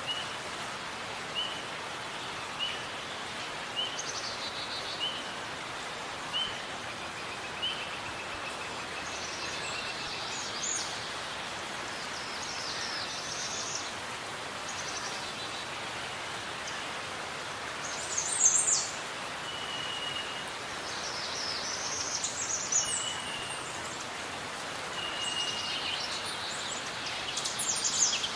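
Forest birdsong over a steady background hiss. One bird repeats a short chirp about once a second for the first several seconds, and other birds sing brief phrases later, the loudest about two-thirds of the way through and near the end.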